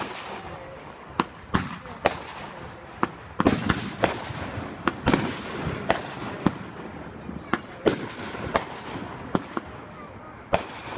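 Fireworks going off: a run of sharp bangs at uneven intervals, coming thickest about a third of the way through, with smaller pops and crackle between them.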